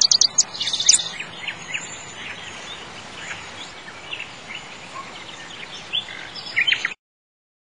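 Birdsong ambience: several small birds chirping over a steady outdoor hiss, with a quick run of high chirps at the start and another cluster near the end. The sound cuts off suddenly about seven seconds in.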